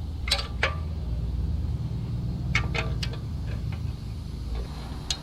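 A steady low motor hum with a handful of sharp metallic clinks, two about a third and two-thirds of a second in, three more around two and a half to three seconds, and one near the end.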